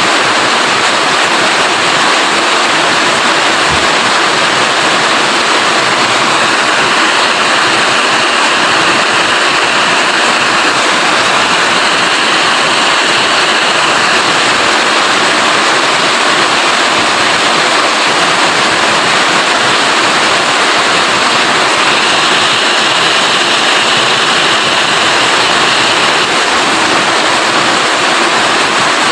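Rain falling steadily, a dense even hiss, a little brighter for stretches in the middle and near the end.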